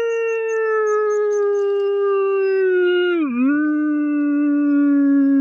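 A dog howling, left behind on the beach by its owner who has paddled off in a canoe: one long, unbroken howl that drops to a lower pitch about three seconds in and carries on.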